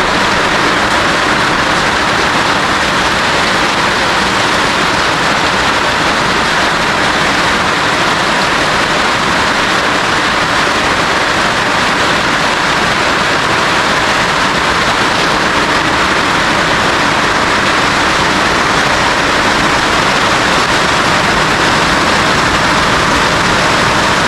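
Heavy rain falling on a new roof, a loud, steady, dense hiss that holds even throughout.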